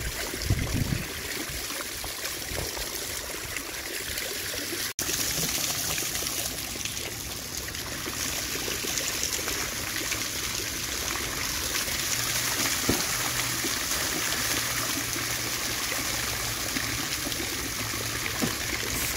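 Water spilling over a spillway, a steady rushing hiss, with a couple of low bumps near the start and a momentary cut-out about five seconds in.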